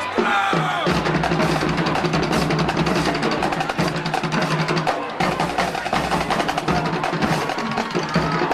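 Marching band drums playing rapid snare and drum hits over a held low note, with a brief break about five seconds in.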